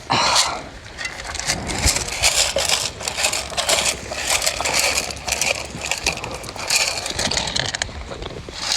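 Irregular crunching and rustling close to the microphone, a dense run of small scrapes and crackles.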